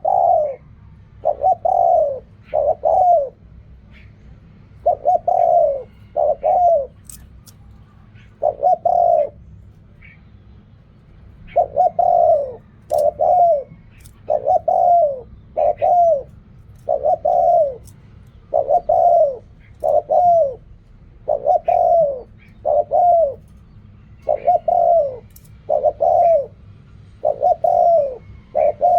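Spotted dove cooing over and over, in short phrases of two or three coos with brief pauses between them. A faint low hum runs beneath.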